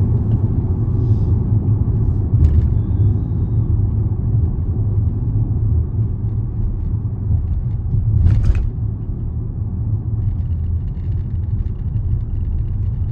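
Steady low road rumble of a moving car heard from inside the cabin, with a short click a couple of seconds in and a brief louder noise about eight seconds in.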